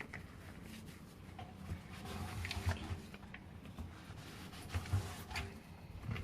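Soft rubbing and handling noises with scattered light clicks and knocks, from wiping a washing machine's rubber door seal clean.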